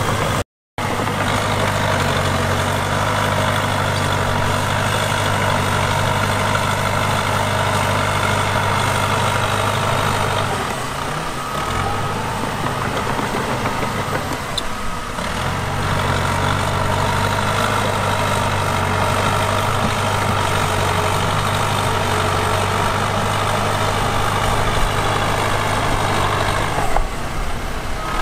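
Heavy diesel engine of earth-moving machinery running steadily, with a brief total dropout just under a second in. Its low note falls away for a few seconds around the middle, then comes back.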